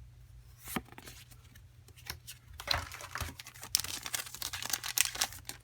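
Foil Pokemon card booster-pack wrapper crinkling and tearing as it is opened by hand. There is a brief crackle about a second in, then a longer run of crinkling from about the middle to near the end.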